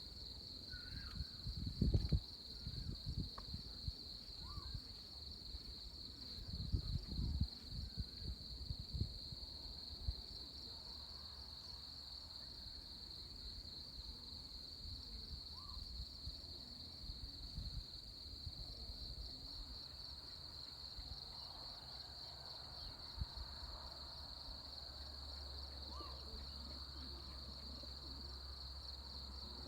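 A steady, high-pitched insect chorus, with wind gusting on the microphone during the first ten seconds and a few short bird calls scattered through it.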